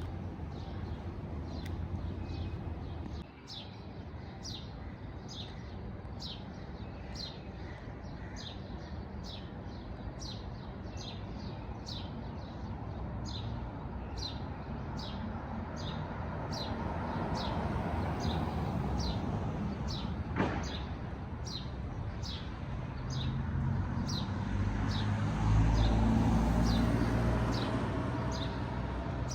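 A bird chirping one short high note over and over at a steady pace, about three every two seconds, over a low background rumble that swells for a few seconds near the end. A single sharp click about two-thirds of the way through.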